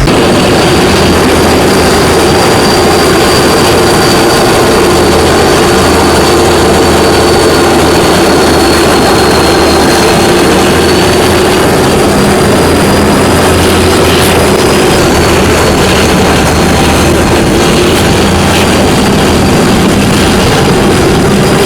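Passenger train running, heard from on board: a loud, steady rumble with a thin high whine that wavers slightly in pitch.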